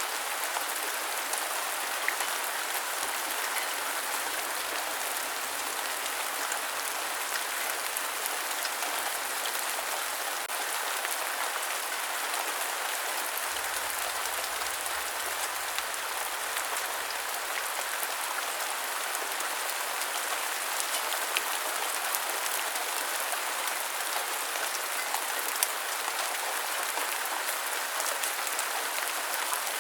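Steady rain falling, an even hiss of many drops, with scattered sharper single-drop ticks standing out here and there.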